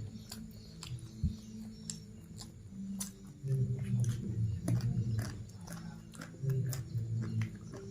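Close-miked chewing and biting of food, with many scattered sharp clicks and crunches from the mouth, over a low droning hum that shifts in pitch.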